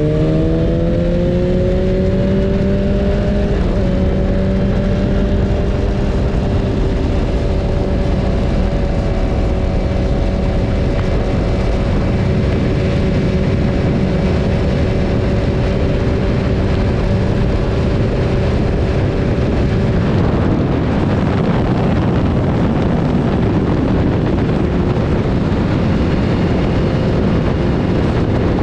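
Onboard sound of a BMW S1000RR's inline-four engine, rising in pitch over the first few seconds and then held at a steady speed under heavy wind rush. About two-thirds of the way through, the engine note fades and wind noise takes over.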